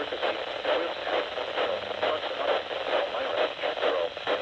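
A voice talking over a radio receiver, thin and muffled, with a steady hiss behind it.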